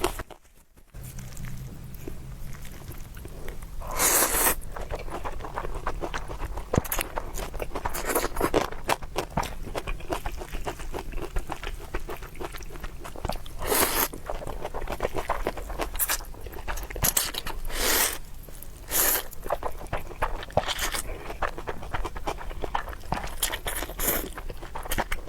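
Close-miked eating sounds: steady wet chewing with crunchy bites, and several louder bites or mouthfuls standing out along the way.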